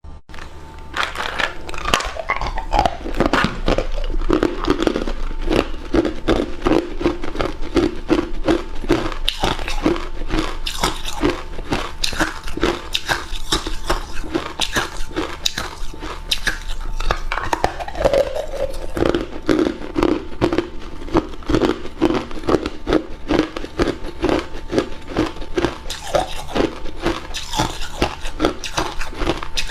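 A person biting and chewing hard ice cubes: continuous, rapid loud crunching.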